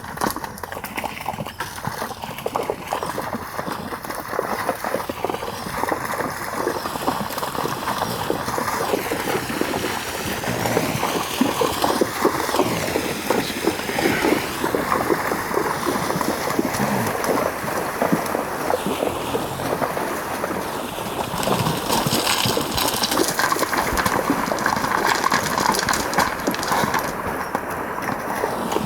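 Wild horses' hooves splashing and clattering as a band wades into a river, a dense, irregular run of splashes over the rush of the water.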